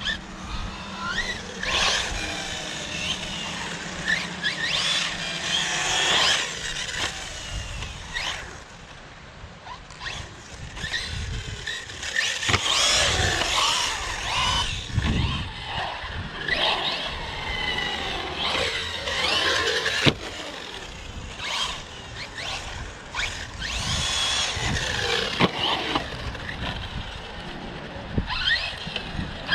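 Electric RC car driven hard, its motor whining up and down in pitch in repeated bursts of acceleration and braking, with tires squealing and scrubbing on concrete.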